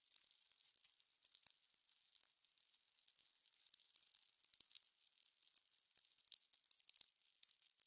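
Fire crackling: a faint steady hiss with irregular sharp pops and snaps, several a second, bunching up about halfway through.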